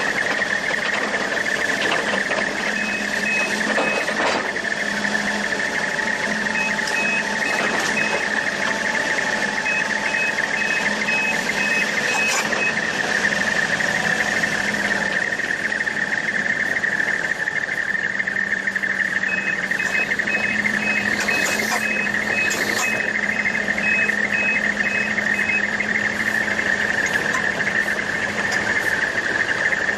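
Heavy machinery running steadily, with a reversing alarm beeping about twice a second in spells, including one stretch in the second half of about six seconds.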